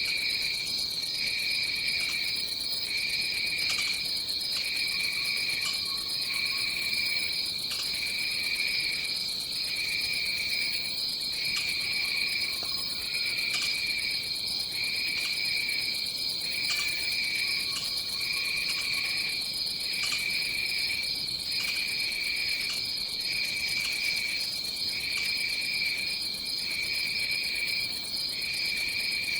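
Tropical forest insect chorus: one high, steady trill, with a second, lower insect call pulsing on and off about once a second.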